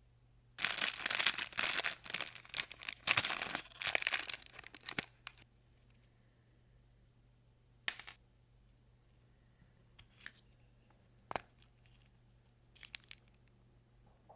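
Toy packaging being torn open and crinkled during an unboxing, a dense run of tearing and rustling for about five seconds, followed by a few isolated crinkles and clicks.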